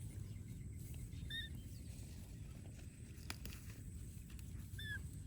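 Two short, high chirps from a small animal, about three and a half seconds apart, over a low steady rumble.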